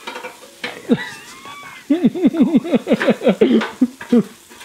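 A man laughing hard in a quick run of pitched 'ha' sounds, about five a second, for roughly two seconds, after a shorter vocal exclamation about a second in.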